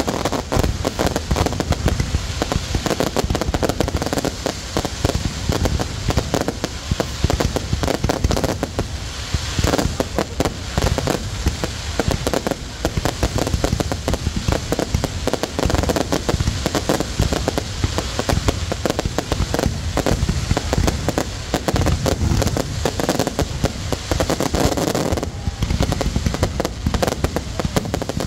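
Fireworks display going off without a break: a dense, rapid crackle of many bangs and pops a second.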